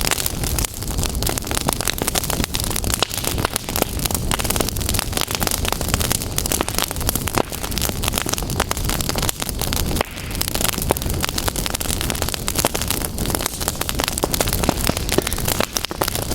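Fire crackling: a dense, irregular run of sharp pops and snaps over a steady rushing noise.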